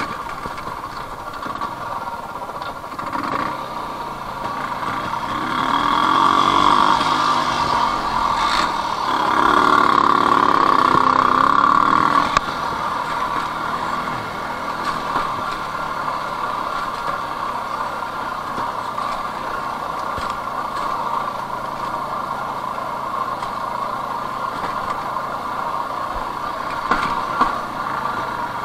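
Jawa 250 type 353 single-cylinder two-stroke motorcycle engine running while riding. It revs up and down and runs louder twice, from about five to eight seconds and again from about nine to twelve seconds. The throttle is shut suddenly at about twelve seconds, and it then runs steadily and quieter.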